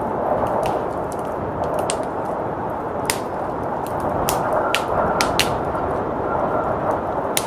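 Wood fire crackling with sharp, irregular pops over a steady rushing blizzard wind. A faint thin whistle sounds about halfway through.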